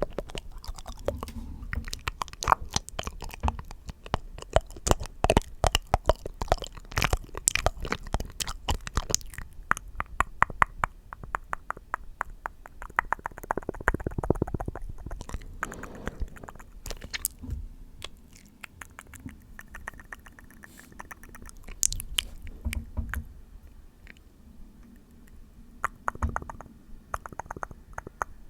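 Close-miked ASMR mouth sounds: wet clicks and smacks in quick runs, thick at first and sparser later.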